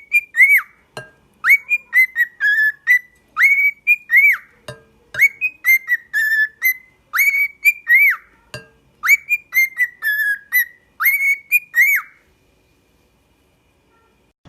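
A parrot whistling a tune: phrases of clear, loud notes that rise and fall, repeated over and over for about twelve seconds, then stopping.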